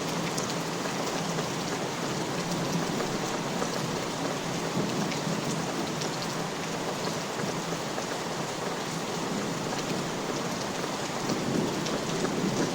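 Steady rain falling on a surface, with scattered individual drops. Near the end a low rumble of thunder begins to build.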